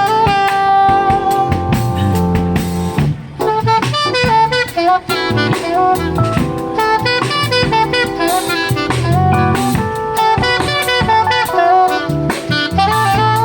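Live jazz band: saxophone playing a melodic line of held and moving notes over drum kit and bass.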